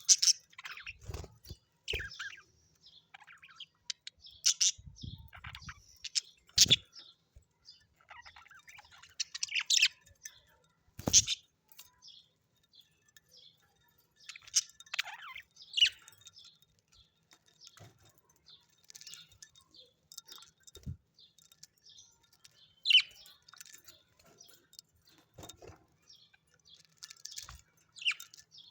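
Pet birds chirping, giving short, high calls scattered every second or two, mixed with a few soft low thumps.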